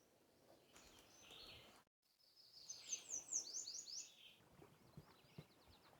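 A small songbird singing outdoors: a quick run of high, slurred whistled notes about three seconds in, then a fainter run of similar notes. Before it there is only faint outdoor background.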